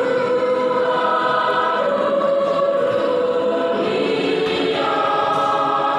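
Church choir singing a hymn in parts, holding sustained notes that change about every second or so.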